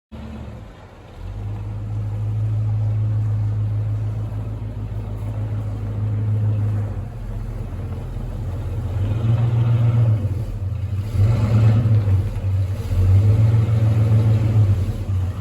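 Square-body GMC Sierra Grande pickup running through its dual exhaust with rear-exit tips: a steady low rumble that settles in about a second in, then three revs in the second half.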